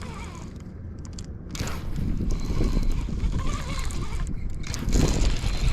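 Wind buffeting the microphone on open water, with light mechanical clicking near the end.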